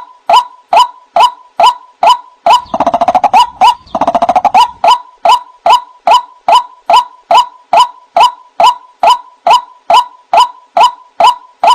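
White-breasted waterhen (ruak-ruak) calling: a loud, monotonous series of short "kwak" notes, about two to three a second. Two rapid gurgling rattles come in the middle, then the steady notes resume.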